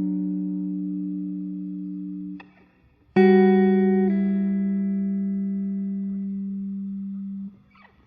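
Slow guitar music: single strummed chords, each left to ring and fade, with a short silence before the next chord about three seconds in.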